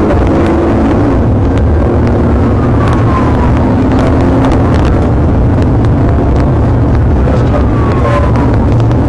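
Police patrol car driving fast in a pursuit: steady engine and road noise.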